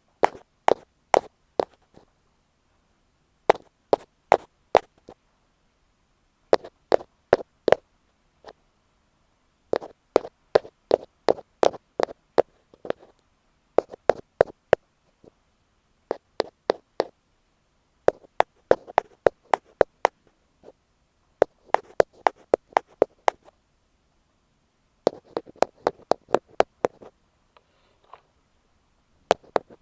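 Ear pick tapping on an earphone microphone: quick, sharp taps in runs of about four to eight, with short pauses between the runs.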